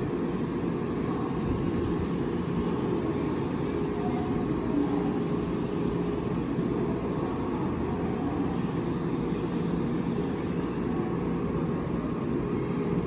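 Nankai 8300-series electric train standing at the platform, its onboard equipment giving a steady hum with a constant tone.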